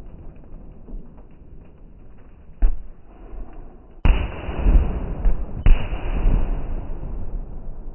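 Fireworks going off: a single sharp bang about two and a half seconds in, then two sudden loud bursts about four and five and a half seconds in. Each burst is followed by a long rush of noise that fades away.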